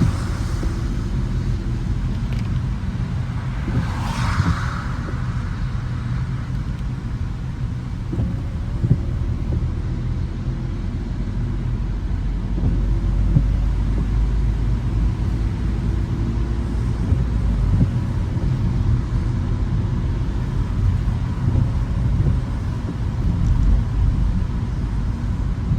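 A car driving through city streets, with a steady low road and engine rumble. A short, brighter rush of noise comes about four seconds in.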